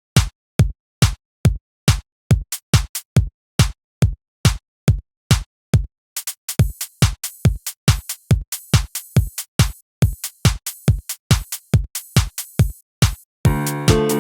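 Music: a drum-machine beat playing alone, sharp evenly spaced drum hits with silence between them. Hi-hats join about halfway through, and near the end sustained chords and bass come in as the full song starts.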